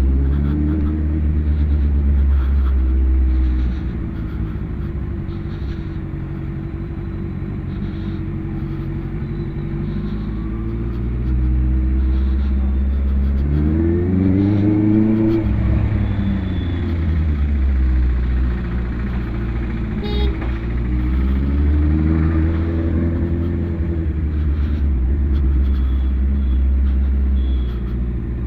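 BMW S1000RR inline-four engine on the move, over a steady low rumble; the revs climb and drop back twice, about halfway through and again later.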